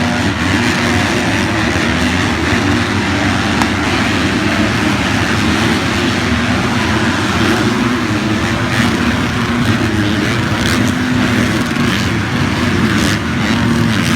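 Motocross bike engines running on track, a loud steady engine note with small shifts in pitch.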